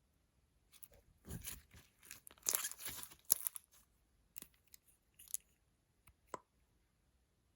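Crackly crunching and tearing sounds of slime being worked with makeup, an irregular run of bursts lasting about three seconds, followed by a few separate sharp clicks.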